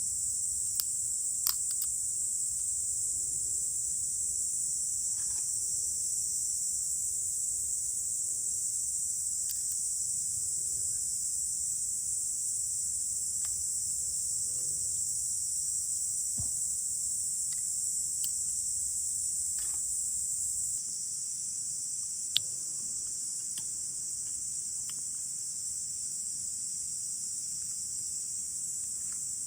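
A steady, high-pitched chorus of insects such as crickets, running throughout. A few sharp clicks stand out over it, the loudest about two-thirds of the way in.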